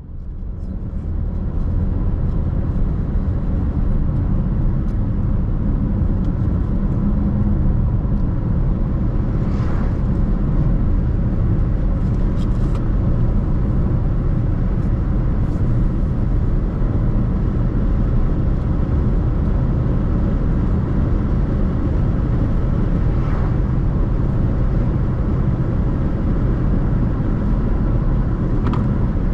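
Car driving along a road: a steady low rumble of tyres and engine that fades in over the first couple of seconds.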